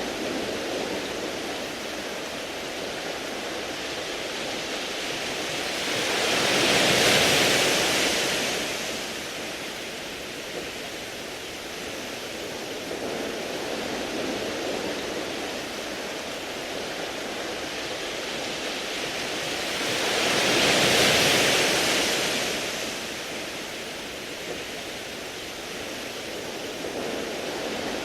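Waves breaking on a beach of smooth round pebbles: a steady surf wash with two bigger waves, about a quarter and three quarters of the way through, each swelling into a loud hiss and fading away over a few seconds.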